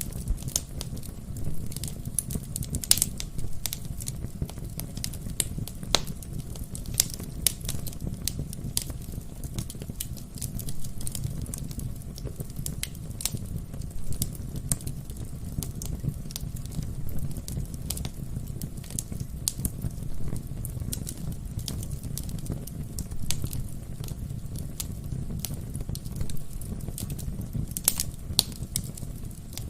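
Wood fire burning in a fireplace: a steady low rumble of flames with irregular crackles and pops from the logs, a few louder pops scattered through.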